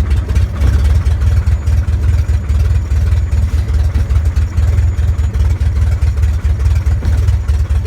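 Airplane engine and propeller droning steadily during flight, with a heavy low rumble.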